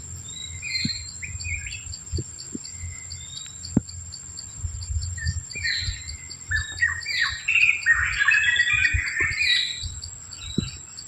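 Several small birds chirping and calling at once, sparse at first and growing into a dense, overlapping chatter in the second half, over a steady high-pitched insect drone.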